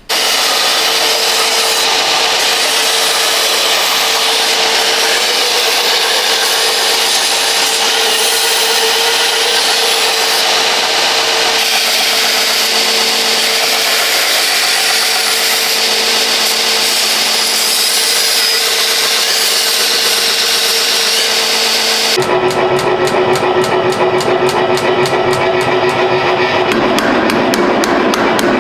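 Power grinder grinding steel, cleaning the slag off cut edges and smoothing them, with a steady whine over a loud grinding hiss. About 22 seconds in the sound changes to a lower-pitched machine noise with rapid, evenly spaced ticks.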